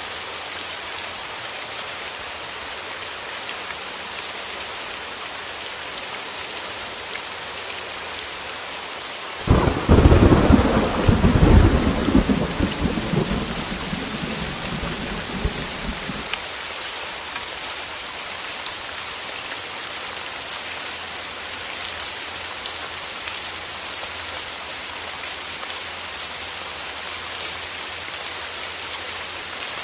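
Heavy rain falling steadily. About a third of the way in, a thunderclap breaks in suddenly and rumbles low for about six seconds before fading back under the rain.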